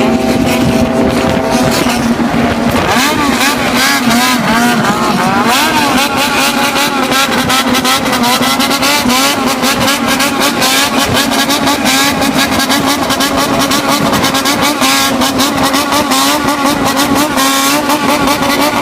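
A motor vehicle engine revved up and down in quick succession over a steady low running note.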